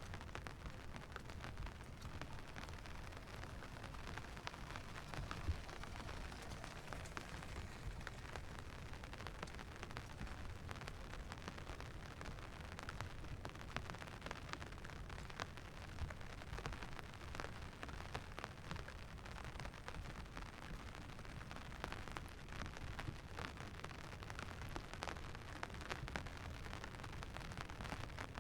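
Steady rainfall with many small, scattered drop ticks over a constant low rumble.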